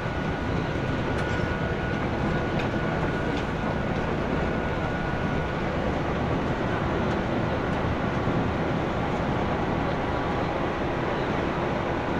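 Interior running noise of a JNR 165 series electric multiple unit, heard inside the KuMoHa 165 motor car: a steady rumble of wheels and running gear, with a few faint clicks in the first few seconds.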